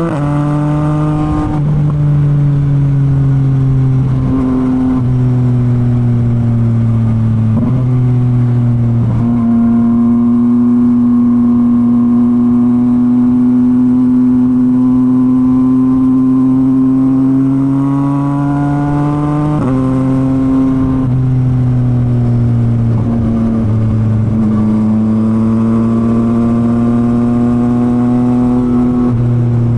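Yamaha MT-09's 890 cc inline-three engine running through a Revoc SP full exhaust while riding. The exhaust note holds steady for stretches and steps or glides to a new pitch several times as the revs change.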